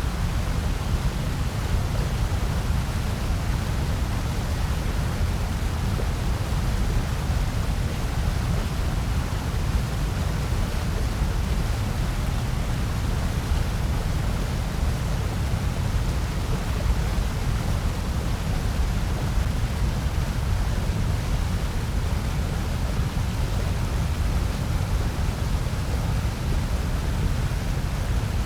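Steady generated noise played as a white-noise sleep track, even and unchanging throughout. It is heaviest in the deep bass, with a lighter hiss above.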